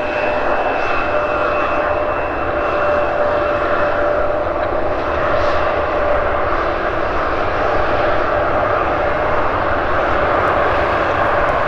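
Jet airliner engines running steadily: a continuous jet noise with a lower whine throughout and a higher whine that fades out about three seconds in. The aircraft is an Airbus A340-300.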